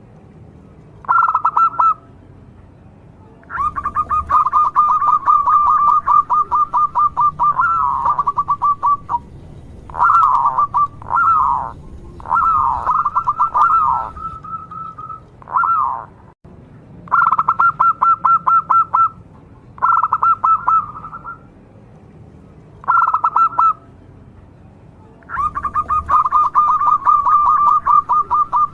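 Zebra dove (perkutut) cooing: repeated phrases of fast, purring pulsed notes held at one pitch, some under a second and some several seconds long, with short pauses between.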